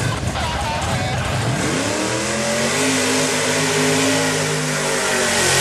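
A mud-bog truck's engine revs up about two seconds in and is held at high revs, after a rough low rumble at the start.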